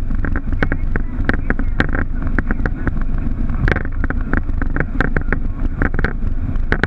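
Boeing 737 heard from inside the cockpit: a steady low rumble of the engines and airframe with frequent irregular clicks and rattles.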